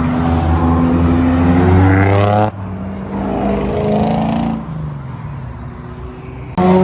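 Car engines accelerating hard, each rising in pitch. One pulls away for about two and a half seconds and stops suddenly, a second rises and fades, and another starts loud and abruptly near the end.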